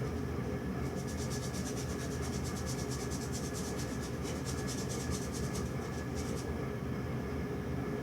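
Paintbrush scrubbing on canvas in quick repeated back-and-forth strokes, starting about a second in and stopping well before the end, over a steady low hum.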